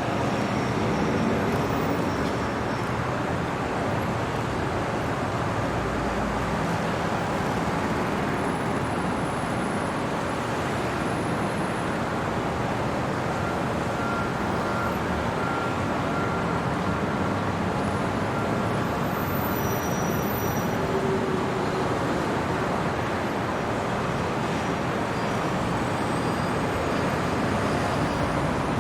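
Steady city road-traffic noise, an even wash of distant vehicles with no single car standing out, and a faint brief whine about halfway through.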